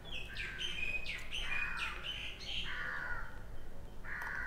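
Birds calling, a run of short separate chirps and calls, some falling in pitch, with a longer call near the end.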